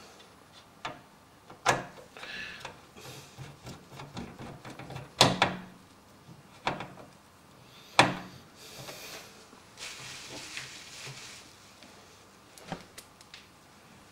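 Knocks and clunks of hands working on a PC case while securing a cable at the back: three sharp knocks about 2, 5 and 8 seconds in, a few lighter taps, and a stretch of soft rustling and scraping between.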